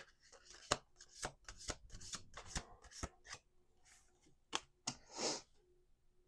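A Folk Birds Oracle card deck shuffled by hand: a run of quick soft flicks and rustles of cards that thins out after about three and a half seconds, with a longer rustle a little after five seconds.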